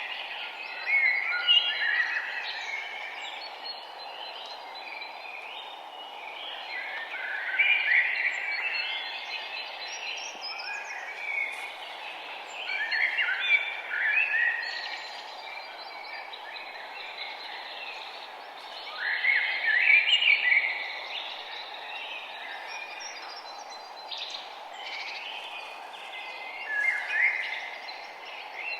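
Songbirds singing in short bursts of chirping every five to seven seconds, over a steady background hiss.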